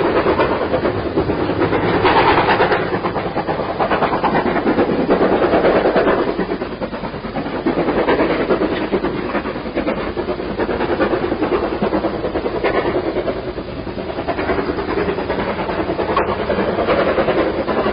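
Steam-hauled heritage train running along the line: a continuous rumble of wheels on rails with clickety-clack from the rail joints, swelling and easing slightly in loudness.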